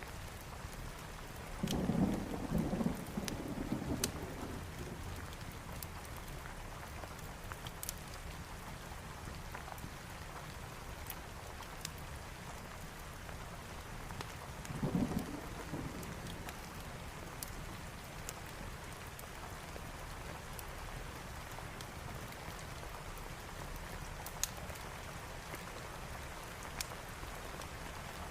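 Steady heavy rain with two low rolls of thunder, a longer one about two seconds in and a shorter one about fifteen seconds in. Scattered sharp pops of a crackling fireplace can be heard over the rain.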